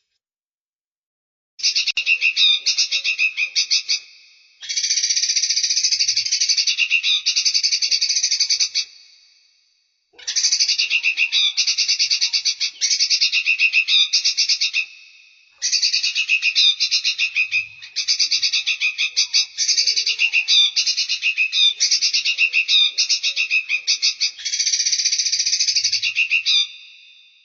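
Songbird calls from a bird-training recording: rapid, high-pitched trilling phrases repeated in bursts of a few seconds, broken by short silences.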